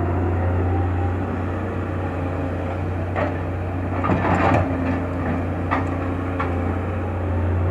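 Excavator's diesel engine running steadily, with a few sharp knocks and a louder burst of clattering about four seconds in.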